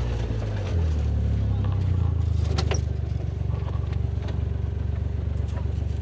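Vehicle engine running low and steady, its note shifting about a second in as it pulls ahead, with a single sharp click near the middle.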